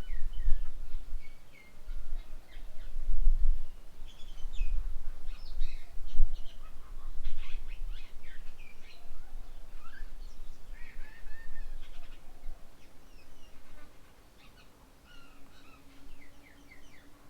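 Several birds calling and chattering with many short, varied notes, busiest in the first half. A low rumble comes and goes under them through the first half, and a faint steady low hum starts about two-thirds of the way in.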